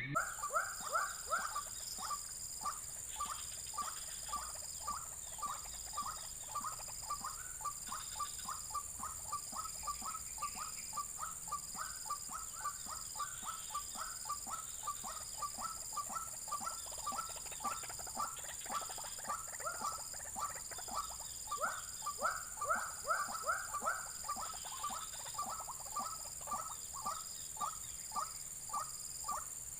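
White-breasted waterhen (ruak-ruak) calling: a long, monotonous series of short repeated notes, about two or three a second. A steady high-pitched drone sits underneath.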